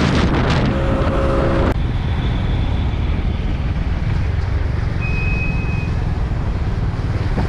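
Steady low rumble of a moving motor vehicle, with wind noise on the microphone that cuts off abruptly about two seconds in. A brief high tone sounds near the middle.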